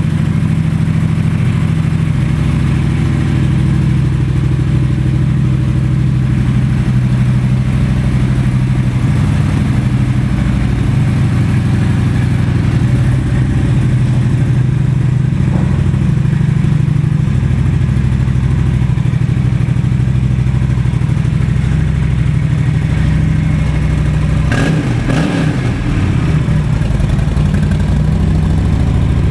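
Honda Shadow Phantom VT750C's 745 cc V-twin engine idling steadily, purring like a kitten. Near the end the sound wavers briefly before settling back to the same idle.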